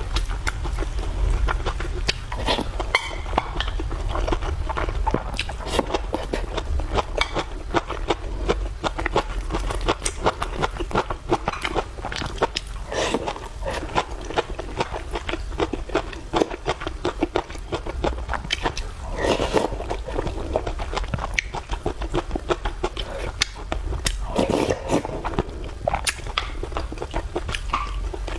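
A person chewing and eating food close to the microphone: a dense run of quick wet mouth clicks and smacks.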